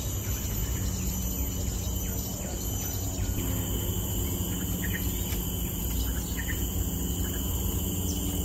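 Outdoor ambience: steady high insect trilling with a few short bird chirps about halfway through, over a constant low rumble.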